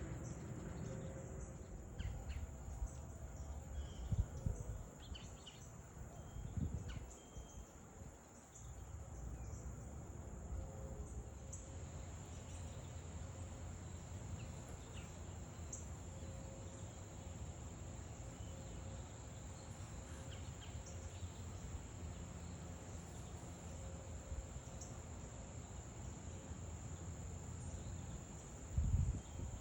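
A steady, high-pitched chorus of insects, crickets by the sound of it, over a low outdoor rumble. There are a few faint bird chirps in the first several seconds and a few dull low thumps, the last near the end.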